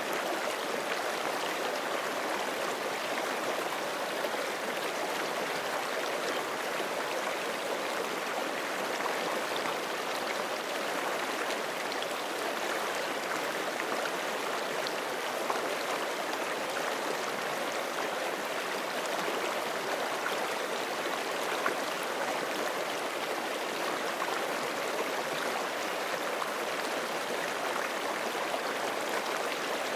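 Forest creek flowing over rocks: a steady, even rush of water with small splashes and gurgles.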